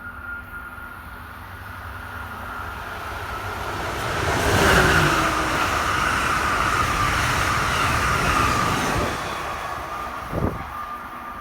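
Passenger train passing through the station at speed, building up, going by loudly with a high whine that drops slightly in pitch, then fading away. A single sharp knock comes near the end.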